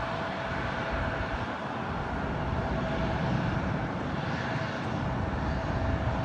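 Jet airliner engine noise heard up close: a steady rush with a thin steady whine that fades out near the end.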